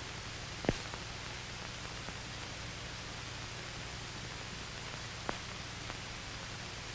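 Steady hiss with a low hum from an old training film's soundtrack, with two faint clicks: no sound from the work itself.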